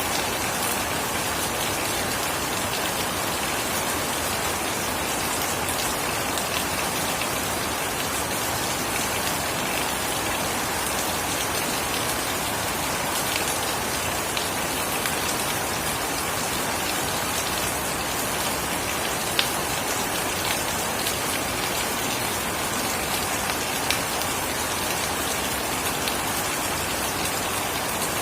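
Steady heavy rain falling, with now and then a louder single drop striking close by.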